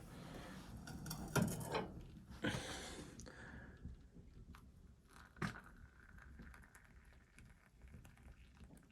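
Rustling and handling noises with several sharp knocks over the first few seconds, then one more knock about five and a half seconds in, after which it goes quieter with faint ticks.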